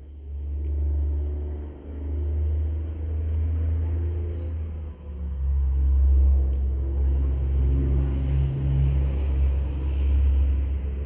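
A loud, low rumble that swells and fades, with brief sudden drops about two, five and eight and a half seconds in.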